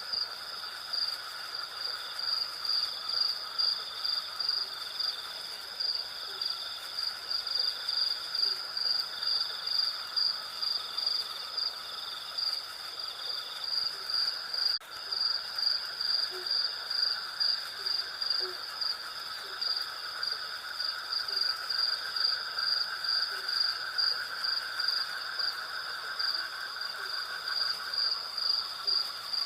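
Night insect chorus: crickets chirping in an even, rhythmic pulse of a few chirps a second over a continuous lower insect drone. The sound drops out very briefly about halfway through.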